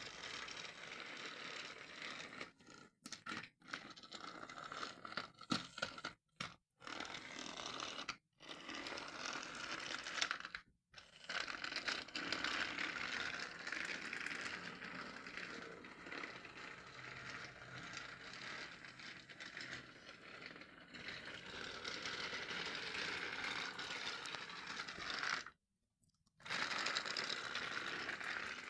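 Battery-powered TrackMaster toy engine running: a small electric motor whirring and wheels rattling along plastic track. The sound cuts out to silence several times.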